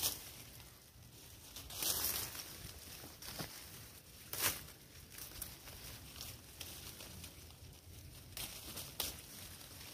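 Leaves and thin branches rustling as they are pushed and pulled by hand, in irregular bursts, the loudest about two seconds in and at four and a half seconds.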